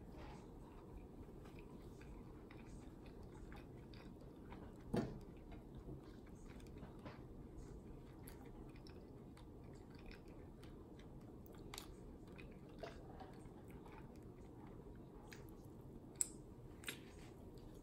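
Faint chewing and biting on fried hot wings, with scattered soft mouth clicks, a louder one about five seconds in and two sharper ones near the end.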